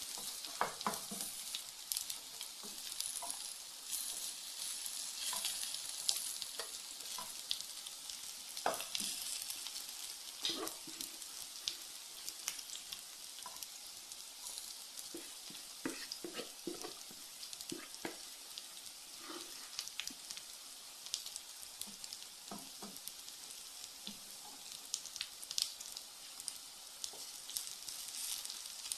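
Cabbage-and-carrot egg nests frying in hot oil in a frying pan: a steady sizzle with scattered sharp crackles.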